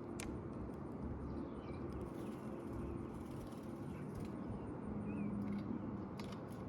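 Steady low outdoor rumble with a few faint, short bird chirps scattered through it and a couple of sharp clicks near the start and near the end.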